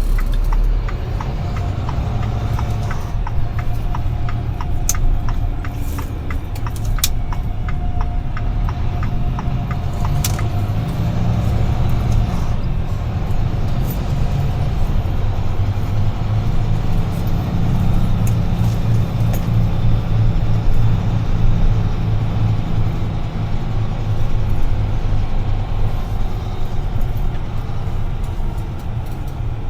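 UD Trucks Quon heavy truck heard from inside the cab, its diesel engine running with a steady low hum. During the first third, the turn-signal indicator ticks evenly, then stops.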